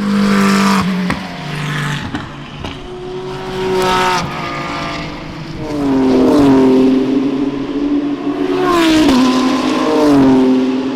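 GT3 race car engines passing at speed, the sound swelling and fading as cars go by. Later the pitch drops in several quick steps, downshifts under braking.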